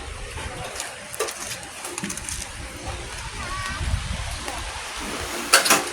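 Rain falling steadily, with a few sharper knocks or splashes standing out, the loudest cluster near the end.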